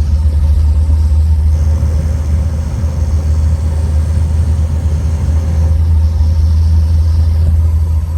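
Car engine and road noise heard as a steady, loud low rumble.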